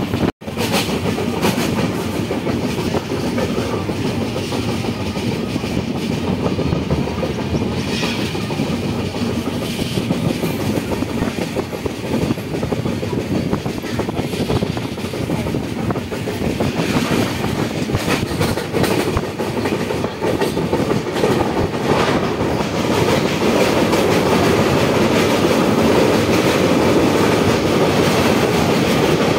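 Express passenger train running at speed, heard from an open coach doorway: a steady rumble of wheels on rails with the clickety-clack of rail joints. The sound cuts out for a moment about half a second in and grows a little louder near the end.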